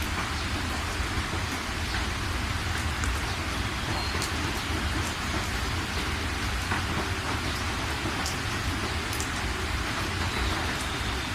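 Steady rain falling, a continuous hiss with scattered sharp drip ticks, over a steady low rumble.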